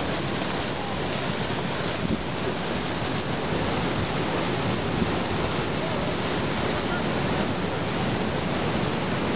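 Hurricane wind and surging flood water making a steady, even rushing noise, with wind buffeting the microphone.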